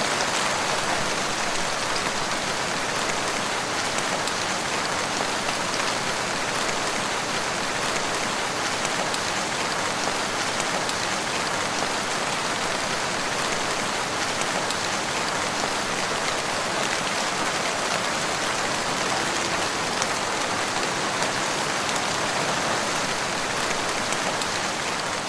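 Steady rain falling on the ground: a dense, even patter of drops that does not let up.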